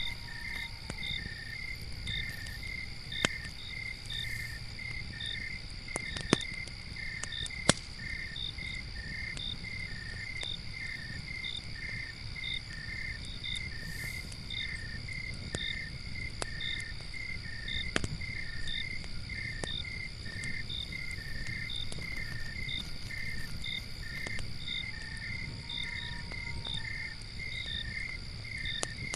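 Crickets chirping in quick, evenly spaced pulses over a steady high insect trill, with a campfire's low rumble and a few sharp crackles and pops.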